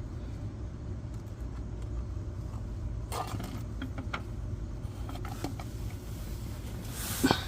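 A few light clicks and knocks as an oil filter is twisted off inside a cup to catch the draining oil, over a steady low hum.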